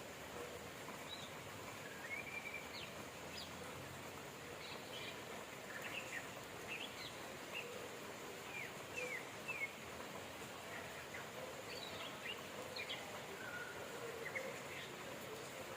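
Small birds chirping, many short quick calls scattered throughout, over a steady hiss of rain.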